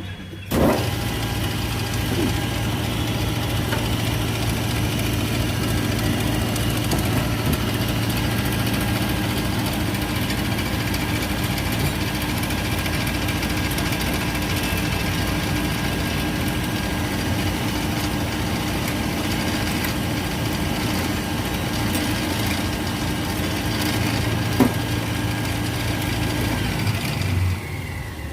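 Repaired Bosch 12 V alternator from a Mahindra XUV500 spinning on an alternator test bench: the bench starts with a thump about half a second in, then runs with a steady whine and hum. Near the end it is switched off and the whine falls in pitch as it spins down, with one sharp click a few seconds before. It is a charging test the alternator passes, putting out over 14 V.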